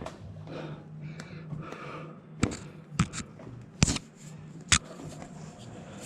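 Four sharp clicks and knocks over a faint low hum, typical of handling tools and parts by hand.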